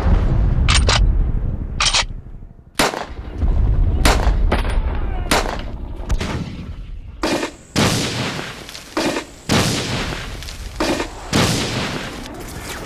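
Battle sound effects of gunfire: about a dozen separate shots and short bursts over a low rumble of booms.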